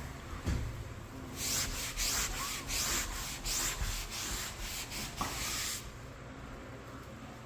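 Sanding dried Plus 3 joint compound over a repaired drywall tape seam: quick back-and-forth scraping strokes, about three a second, starting about a second and a half in and stopping about six seconds in.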